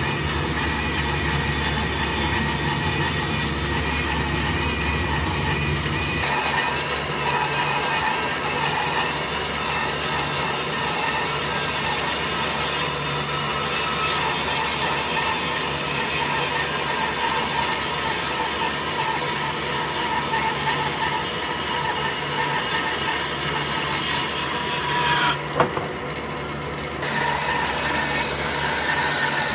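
Woodworking power tool running steadily on wood, a continuous mechanical noise that changes pitch about six seconds in. There is a short break with a sharp click near the end.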